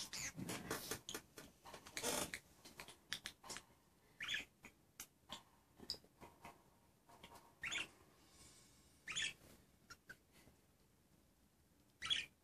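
Budgerigars chattering softly: a dense run of warble and clicks over the first two seconds or so, then scattered clicks and short high chirps every second or two.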